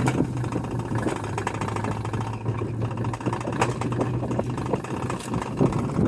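Steady low hum of a running vehicle, with scattered light clicks and knocks over it.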